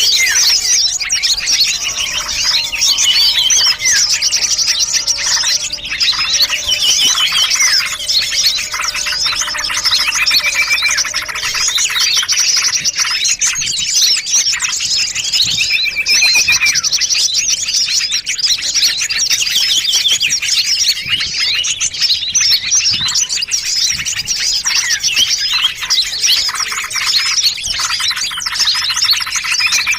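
Dense, continuous chorus of many small songbirds chirping, trilling and twittering over one another: a mixed-species bird-lure (pikat) recording used to draw small birds in.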